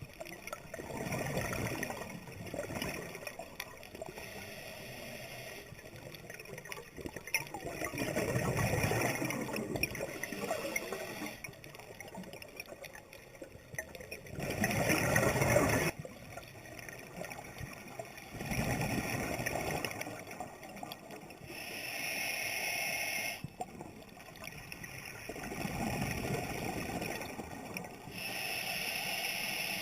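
Scuba diver breathing underwater through a regulator: a burst of exhaled bubbles every few seconds, with a hissing breath in between some of them.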